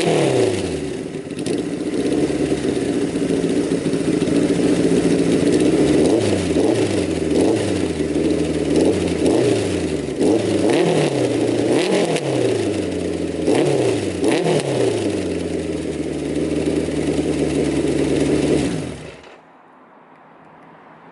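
1974 Kawasaki Z1 900's air-cooled inline-four running on straight pipes, its original four-into-four exhaust with the mufflers removed. It fires up with revs dropping as it settles, is blipped repeatedly with the revs rising and falling, then is shut off near the end.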